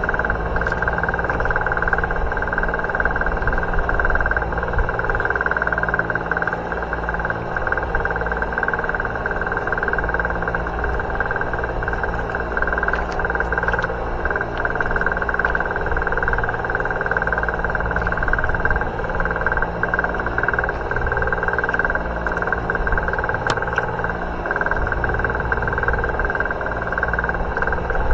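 Fishing boat's engine running steadily, a continuous low drone with a constant higher hum.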